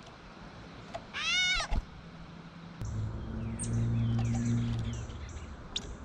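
Gray catbird giving a single mew call about a second in: a short, cat-like meow that rises and falls in pitch. A low steady hum follows for about two seconds.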